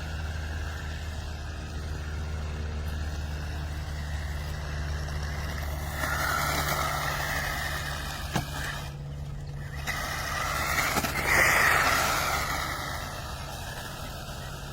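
A motor vehicle's engine idling with a steady low hum, while other vehicles pass by twice, swelling and fading.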